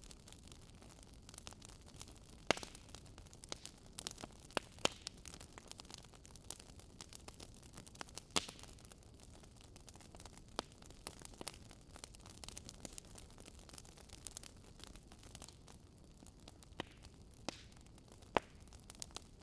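Campfire crackling: irregular sharp pops and snaps over a low steady hiss, with a few louder pops standing out.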